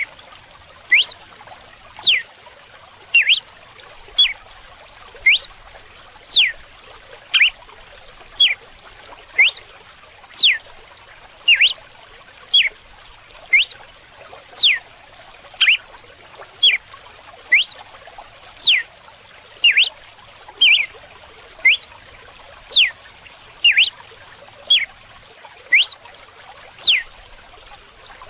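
Red-cowled cardinal (galo-de-campina) singing its 'açoite' (whip) song: a steady series of short, sharp whistled notes about once a second, alternating quick upward and downward sweeps. A steady trickle of running water sounds underneath.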